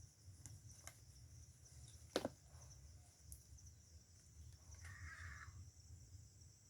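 Faint outdoor ambience: a steady high insect drone over a low rumble, with one sharp click or knock about two seconds in and a brief soft buzz about five seconds in.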